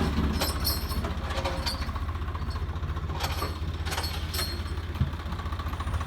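Swaraj 855 tractor's three-cylinder diesel engine idling steadily, with a few sharp clicks over it and a single thump about five seconds in.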